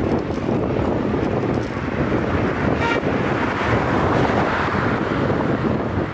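Wind rushing over the microphone of a moving street rider, with traffic noise, and a brief vehicle horn toot about three seconds in.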